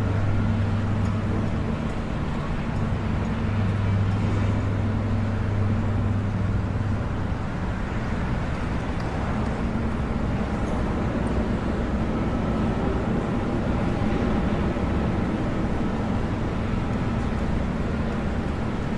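Busy city street traffic: a steady wash of vehicle noise, with a low steady hum for about the first seven seconds.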